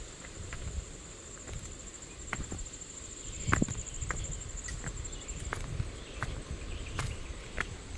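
Footsteps on a dirt trail, an irregular string of crunching steps. An insect keeps up a steady high pulsing buzz that stops about halfway through.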